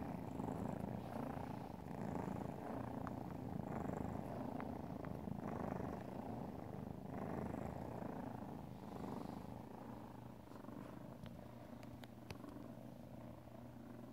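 Domestic cat purring steadily with a deep, engine-like rumble that swells and eases with each breath, growing a little quieter near the end. A few faint clicks sound over it.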